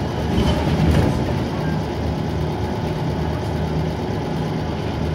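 Dennis Trident 2 double-decker bus engine running steadily, heard from inside the bus, with a louder rumble about half a second to a second in.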